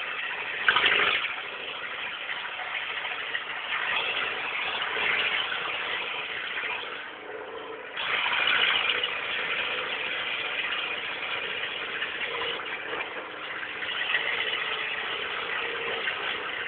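Peugeot 106 1.1-litre four-cylinder petrol engine running with no exhaust fitted, heard from inside the cabin while driving: a loud, raw, unsilenced engine note. It eases off briefly about seven seconds in, then comes back sharply about a second later.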